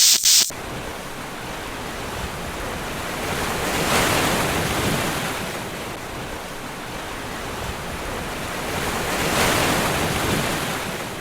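Ocean surf washing ashore, a steady rush that swells twice as waves break, with wind on the microphone.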